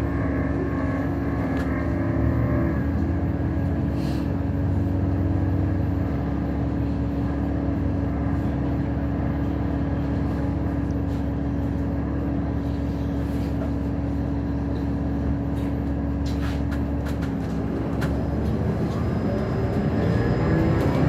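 2012 Gillig hybrid bus running, heard from inside the cabin: a low rumble with a steady droning hum, the strange noise the rider noticed. The hum drops away near the end, where a rising whine begins.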